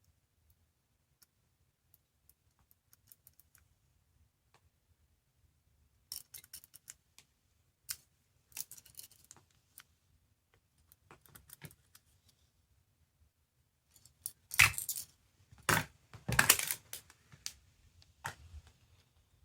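Small hard plastic capsule toys being handled: scattered light clicks and short rattles, getting busier and loudest in a cluster of clacks and jangles about fifteen to seventeen seconds in.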